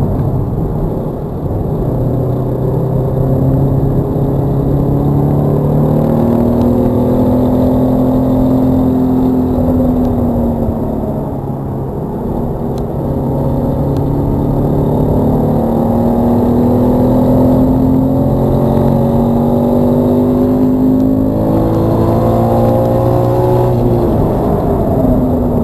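Toyota GT86's 2.0-litre FA20 flat-four engine accelerating hard in third gear, heard from inside the cabin. Its pitch climbs, falls back about ten seconds in as the driver lifts for a corner, then climbs again before dropping off near the end under braking.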